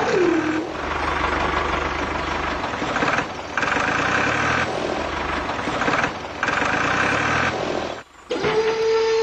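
Small DC motor of a miniature model tractor whining steadily, its pitch dropping just after the start as it takes load, then a rougher mechanical running noise broken by several abrupt cuts, before the steady whine returns near the end.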